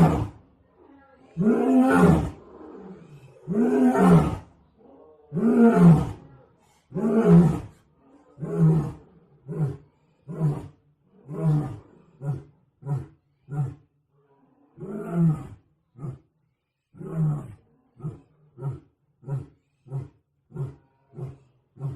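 Big cat roaring in a bout: several long, full roars about two seconds apart, then shorter and quicker grunts. A second bout starts about fifteen seconds in with two long roars and ends in a run of short grunts, about one and a half a second.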